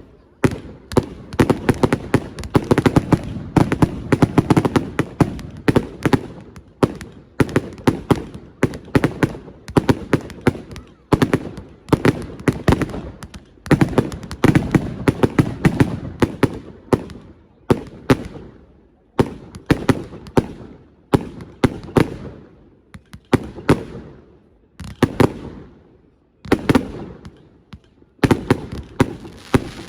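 Fireworks display: rapid, irregular bangs of shells bursting one after another, with crackling and echo between them, thinning out in the last few seconds.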